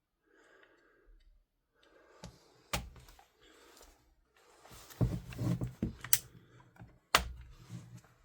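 Bench handling of an airsoft rifle's parts: low rustling and scraping, broken by three sharp clicks, the last and loudest near the end.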